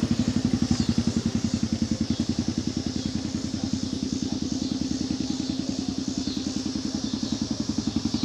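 Motorcycle engine idling with an even, steady pulse of about ten beats a second.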